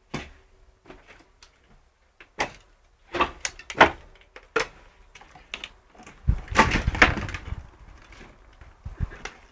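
Scattered sharp knocks and clicks, then a louder, longer rough clatter with a low rumble about six to seven and a half seconds in.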